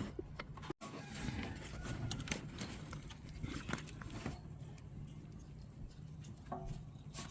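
Scattered light clicks and taps of small parts and clips being handled and fitted under a car's hood, over a steady low hum.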